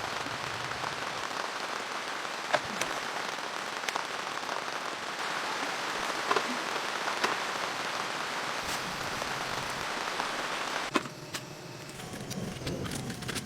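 Steady rain falling, with scattered louder drops tapping now and then. The rain sound drops away abruptly about eleven seconds in, leaving a quieter background.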